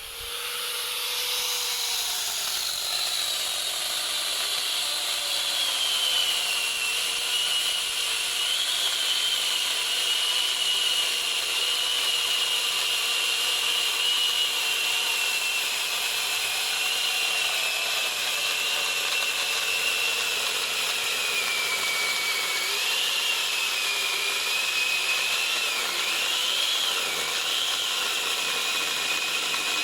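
Angle grinder fitted with a chainsaw attachment, running and sawing into wood: a steady high motor whine. Its pitch sags over the first few seconds as the chain bites in, and wavers up and down under changing load near the end.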